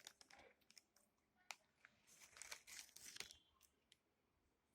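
Faint, scattered crinkling and small clicks of a snack being handled and nibbled, in short irregular spells.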